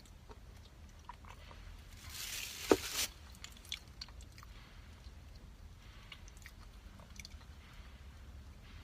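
Close-miked chewing and biting of food, with small mouth clicks. About two and a half seconds in, a brief louder burst of crunching noise with one sharp click.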